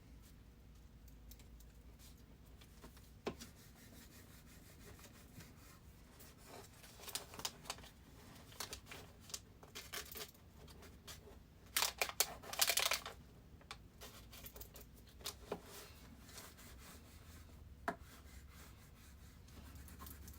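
Faint scattered clicks and rustles of something being handled close to the microphone, with a denser burst of rustling about twelve seconds in, over a low steady hum.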